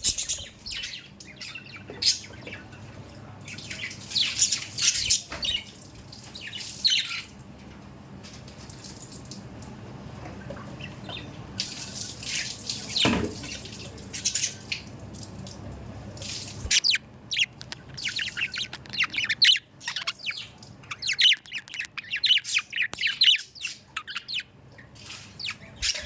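Pet budgerigars chirping and chattering in repeated bursts of short, high chirps, thickest in the last third, with a quieter stretch in the middle.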